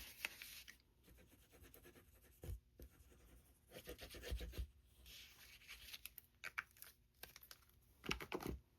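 Faint rustling, scratching and light taps of paper and cardstock pieces being handled and pressed into place on a handmade card, with a few louder handling sounds about midway and near the end.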